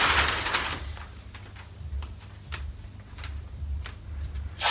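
Masking paper being handled and laid over a car bumper before painting: a rustle of paper at the start, scattered small crinkles and taps, and a sharp paper crackle near the end.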